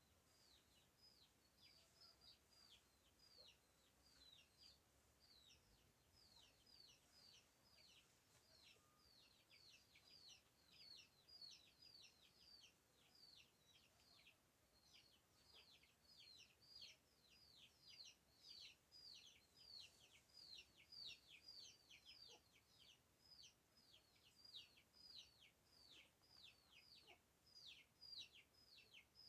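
Faint, rapid high-pitched chirping from birds: short notes falling in pitch, several a second, growing busier about halfway through.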